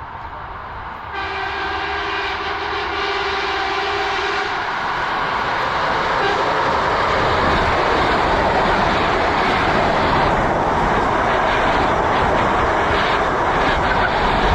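ED4M electric multiple unit sounding its horn, a steady two-note chord lasting about three seconds that starts about a second in, while the train's rushing noise of wheels on rail grows louder and keeps up as it passes close by.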